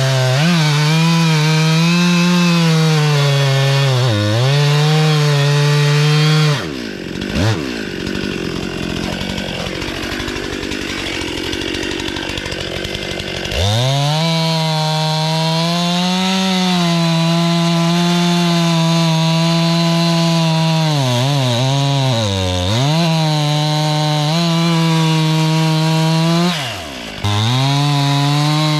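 Stihl chainsaw cutting into a log at full throttle, its pitch dipping briefly as it loads in the wood. About seven seconds in it drops back to a lower, quieter running for several seconds, then revs sharply back up and cuts again, bogging down a few more times near the end.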